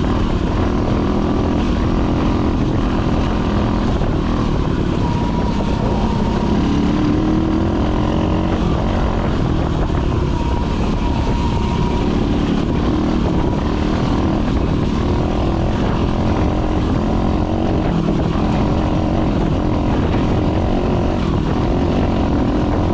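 Dirt bike engine running hard as it is ridden along a trail, its pitch rising and falling with the throttle and gear changes.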